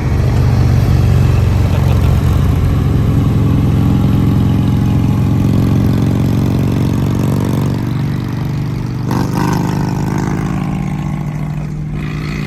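A car engine running loudly with a deep, steady note, its pitch shifting slightly; the sound changes about nine seconds in.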